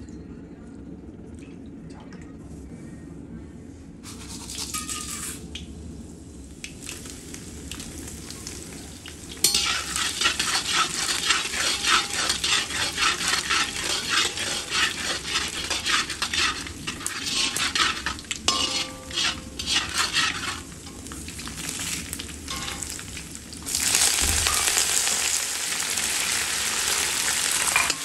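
Oil heating quietly in an iron kadai, then cumin seeds and garlic sizzling in the hot oil from about ten seconds in, with a steel spatula stirring and scraping the pan. Near the end, green chillies, dried red chillies and curry leaves go into the oil and the sizzling gets louder.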